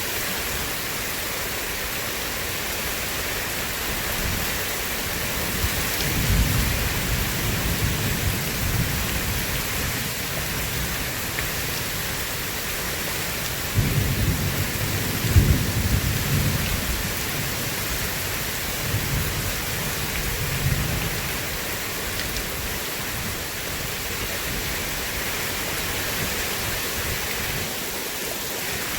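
Steady heavy rain with rolling thunder: a low rumble about six seconds in, a louder peal with sharp cracks around the middle, and a fainter rumble a few seconds later.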